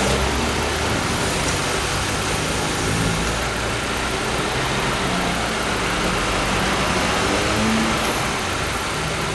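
Peugeot 206 1.4's four-cylinder engine idling steadily.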